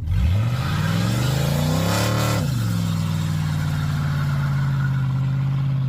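5.3-litre LS V8 in a Chevy C10, running through catalytic converters with no mufflers, revving up for about two seconds, dropping back sharply, then held at one steady high rpm for about three seconds.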